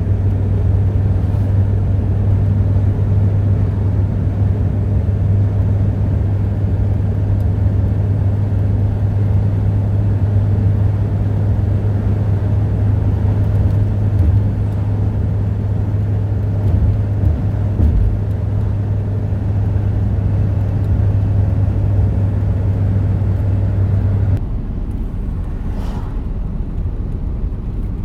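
A steady low rumble with a constant low hum under it. The hum cuts off suddenly about 24 seconds in, leaving a quieter rumble.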